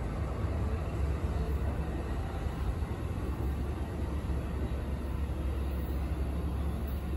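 Passenger train's diesel locomotive running at the station platform, a steady low rumble that does not change.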